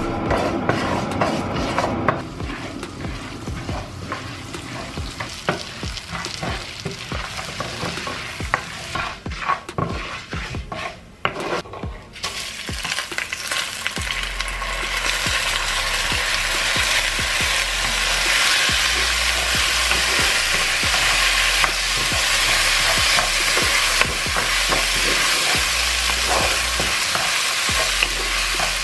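Food frying in a pan: clicks and knocks of kitchen handling, then a steady sizzle that starts about twelve seconds in and keeps on.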